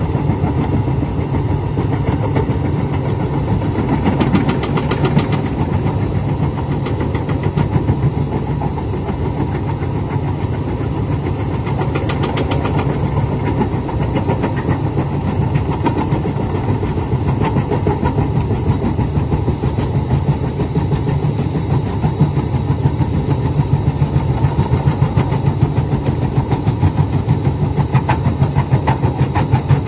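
Large excavator's diesel engine running steadily with a fast, even pulse, while its crusher bucket works. Brief rattling clicks come about four and twelve seconds in.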